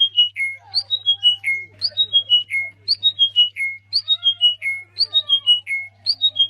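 A bird singing a quick phrase of about five clear whistled notes that step down in pitch, repeated about once a second, with fainter lower calls and a steady low hum underneath.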